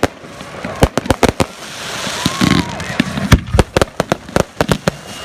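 Fireworks display: a rapid, irregular string of bangs from aerial shells going off, with a stretch of hissing crackle about two seconds in.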